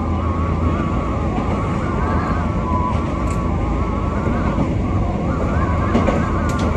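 Wakayama Electric Railway train running, heard from inside the car: a steady low rumble with a whine that wavers in pitch, typical of traction motors and gearing under way, and a few short clicks near the end.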